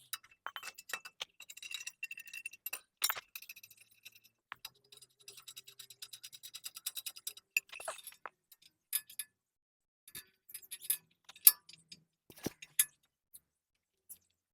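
Steel cultivator tines and a spanner clinking and tapping as the tines are bolted onto a tractor cultivator frame, with some metallic ringing and a few sharper metal knocks, the loudest about eleven and twelve seconds in.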